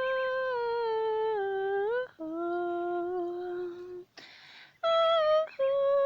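A woman humming a slow hymn tune without words, holding long notes that step down in pitch. There is a short breathy hiss about four seconds in, and then she holds a steady note.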